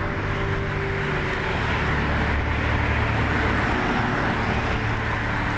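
Boat engines running with a steady low drone under a continuous rush of water and wind noise.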